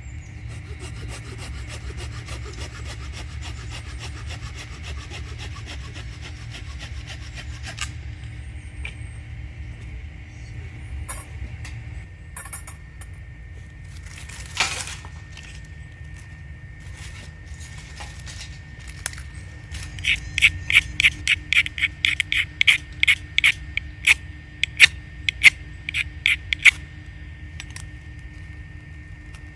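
Firewood being cut by hand with a saw: a rhythmic run of quick back-and-forth strokes, about two and a half a second, in the last third. Before it come scattered scraping on wood and one sharper scrape about halfway, over quiet background music.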